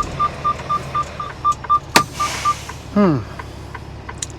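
Truck's dashboard warning chime beeping rapidly at a steady pitch, about four beeps a second, stopping about two and a half seconds in, over the low hum of the idling engine. A sharp click about two seconds in is followed by a short hiss of air.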